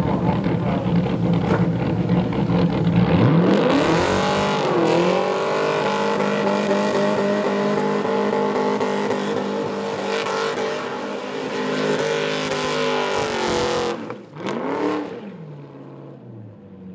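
V8 burnout car's engine held at high revs with the rear tyres spinning in a burnout. The revs climb further about three seconds in and hold. Near the end the engine drops off suddenly, gives one short blip, and settles to a low idle.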